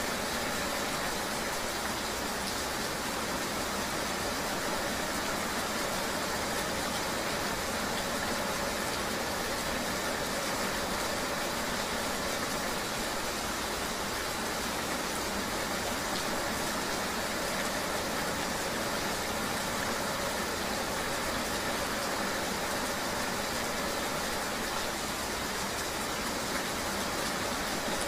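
Steady rain noise with a motor vehicle's engine running underneath, an unbroken hiss with a faint steady hum.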